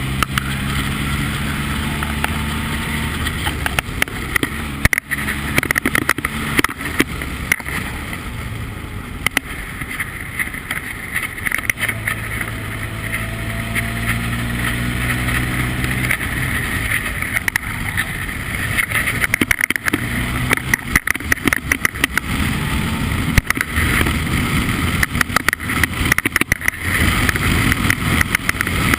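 Formula Ford race car engine running hard, its pitch rising and falling repeatedly as it revs up and changes gear, with frequent sharp crackles over it.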